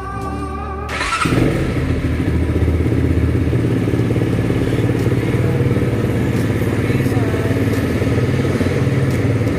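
Vento Alpina 300cc motorcycle's engine and exhaust running steadily, cutting in abruptly about a second in after music.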